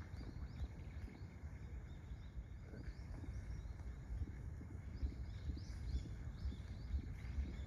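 Small birds giving short, high chirps over and over, over a steady low rumble.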